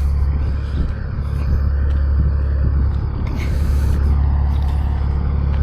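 Heavy diesel engine idling steadily, a low even rumble.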